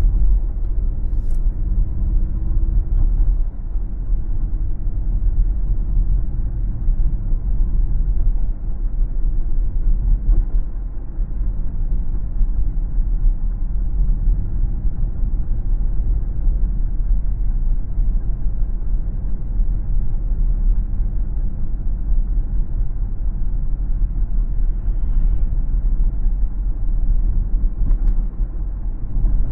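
Car driving on the road: a steady low rumble of tyres and engine, with a faint tone sliding slightly down in pitch over the first few seconds.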